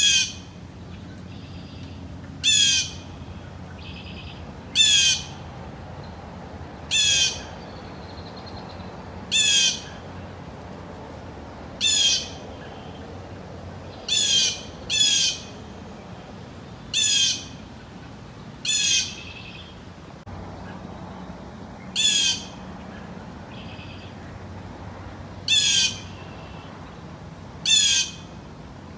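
Steller's jay giving harsh, squawking calls, each a short falling note, repeated about every two seconds with a longer pause near the middle.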